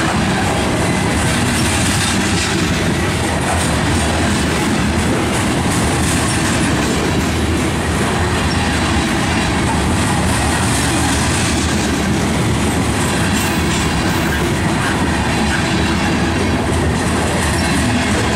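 Covered hopper cars of a freight grain train rolling past at close range: steel wheels running over the rails, loud and steady throughout.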